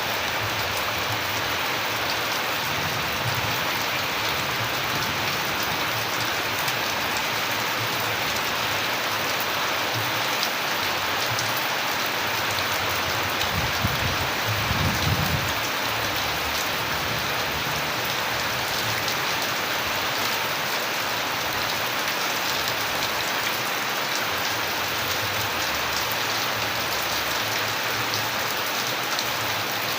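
Steady rain pattering on a surface, with a low rumble swelling briefly about halfway through.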